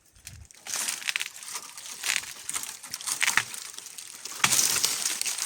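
Dry brushwood being broken and crushed: a run of cracks and crackles starting about a second in, loudest near the end.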